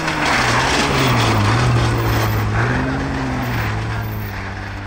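Peugeot 106 rally car's engine running hard as the car drives past on snow, with a haze of tyre noise. The engine note drops just after the start, holds steady as the car pulls away, and the sound fades toward the end.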